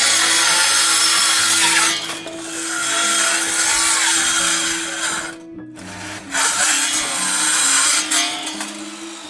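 A power tool running in two long spells, the first ending about five and a half seconds in and the second stopping near the end, over background piano music.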